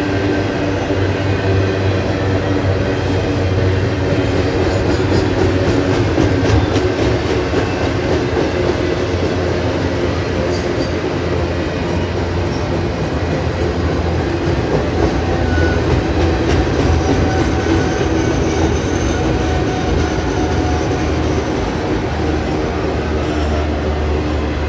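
Double-stack container train's loaded well cars rolling past at steady speed: a continuous rumble of steel wheels on rail, with clicking as the wheels cross rail joints.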